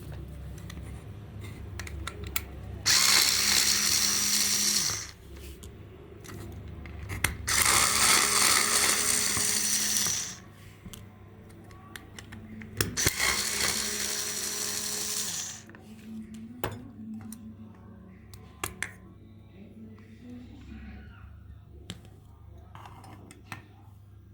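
A small power tool run in three bursts of a few seconds each, with light clicks and handling sounds between the bursts.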